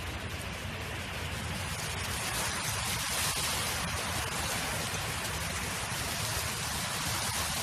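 Wind blowing steadily: a rushing hiss over a low rumble, swelling a little about two seconds in.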